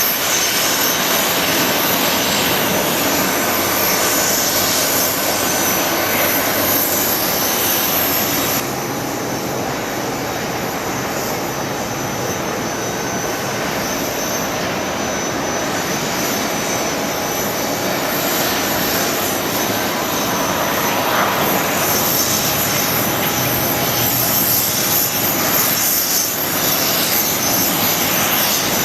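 Jet engines of an Airbus A320-family airliner running, a loud steady rush of noise. The high hiss drops away about nine seconds in and returns over the last third.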